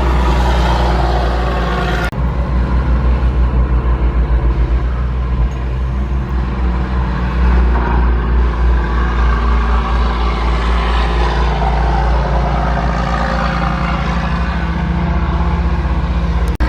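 Truck engine running with a steady low rumble that pulses rapidly in loudness. The sound changes abruptly about two seconds in and again near the end.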